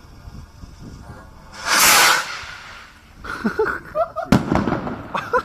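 Firework rocket launching with a loud hiss that lasts about half a second, about two seconds in. Excited shouting and laughter follow, with a single sharp crack partway through.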